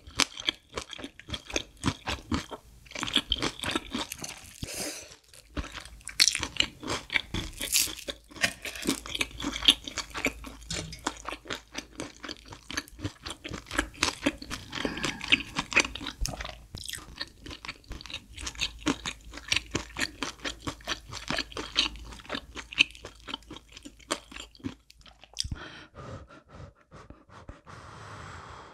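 Close-miked crunching and chewing of a deep-fried breaded pork cutlet, many crisp bites and chews one after another. The crunching thins out near the end.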